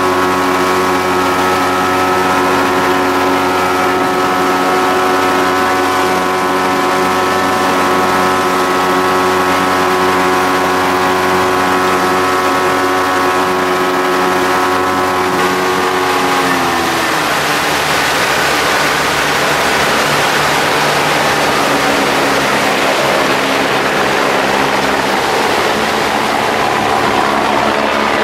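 A vehicle engine running steadily at a constant pitch. About sixteen seconds in, the pitch drops and an even rushing noise takes over.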